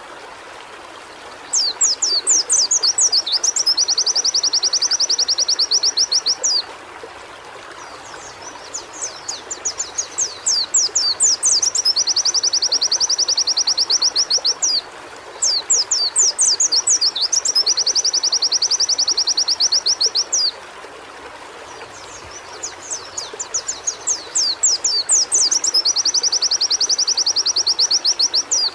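White-eye (pleci) singing in four long bouts. Each bout is a run of quick, high, downward-sweeping notes that runs into a fast, even trill, over a steady background hiss.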